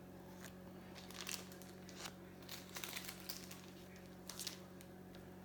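Crinkling of a baseball card pack wrapper being handled and torn open, in several short bursts.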